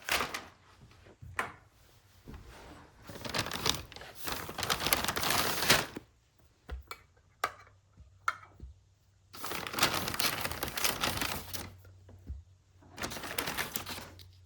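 Bags and their contents rustling and crinkling as they are packed, in several bursts of a second or more, with scattered clicks and knocks between them.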